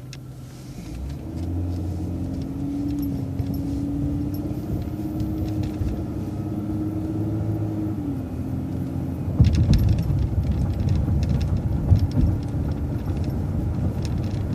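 Vehicle engine pulling away and running under load, heard from inside the cabin. Its tone climbs a little, then eases off about eight seconds in. After that comes a louder rough rumble with knocks and rattles, as over bumpy pavement.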